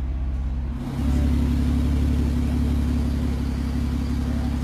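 W Motors Fenyr's flat-six engine idling, a steady low drone; about a second in it becomes a little louder and fuller.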